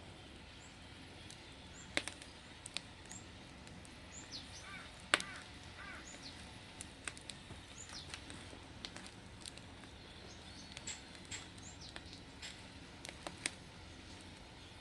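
Wood fire crackling: sharp, irregular pops and snaps, with a few short bird chirps around the middle.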